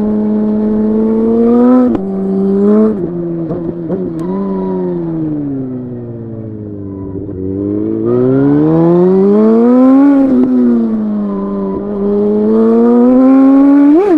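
Suzuki GSX-R 1000 inline-four engine and exhaust ridden hard: the revs hold, then fall for several seconds as the bike slows, then climb and drop twice under acceleration, with a quick sharp rev near the end.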